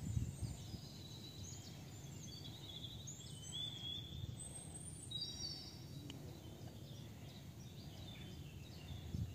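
Small birds chirping and trilling in short, scattered calls, over a low steady rumble of outdoor background noise.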